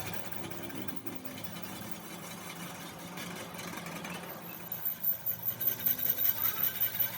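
A steady low mechanical hum from a running machine or motor, which turns into a louder rhythmic pulsing, about three to four beats a second, in the second half.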